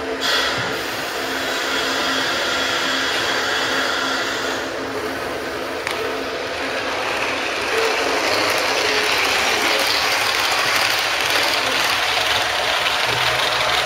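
Model trains running on layout track: a steady mechanical whirr of small motors and wheels on the rails.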